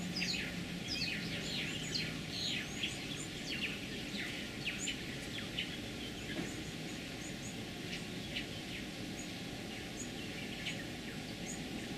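Birds chirping and calling: many short, quick downward-sweeping chirps with brief high notes, thicker in the first few seconds and thinning out toward the end, over a steady outdoor background hiss.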